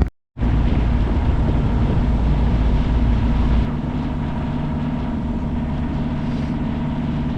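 Boat motor running steadily under a haze of wind and water noise. About three and a half seconds in, the deep rumble drops away abruptly and the motor carries on more quietly.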